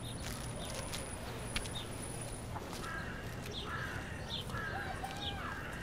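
Birds chirping in a run of short calls, one every second or so, starting about halfway through, over a steady low background hum.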